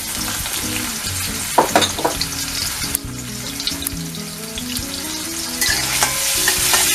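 Chopped green beans sizzling in hot sunflower oil in a wok, stirred with a spatula near the end.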